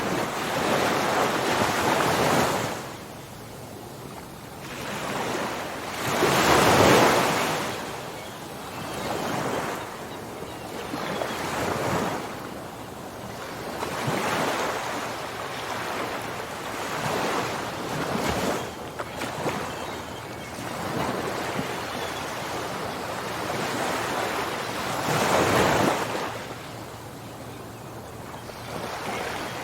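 Ocean waves breaking on a shore, swelling and washing back every few seconds, the strongest surges about a second in, around seven seconds in and near the end.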